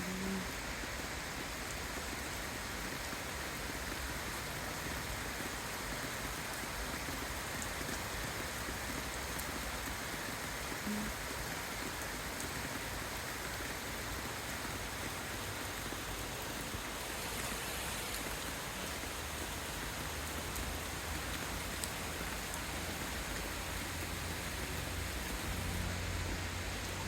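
Steady hiss of light rain falling, with a low rumble coming in during the last few seconds.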